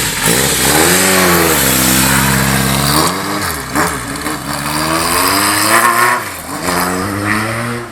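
Classic Japanese motorcycle engine revved through its exhaust. The revs rise and fall several times in throttle blips, with short steady holds between them.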